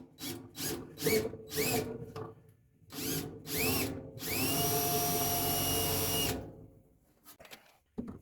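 Power drill drilling out a spot weld in sheet steel: about five short trigger pulls in the first two seconds, each spinning up in pitch, two more around three seconds in, then a steady run of about two seconds that stops shortly before the end.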